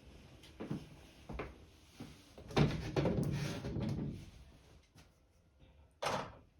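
Objects being handled: two light knocks, then a longer clattering rattle of many small hard pieces, and one short scrape or knock near the end.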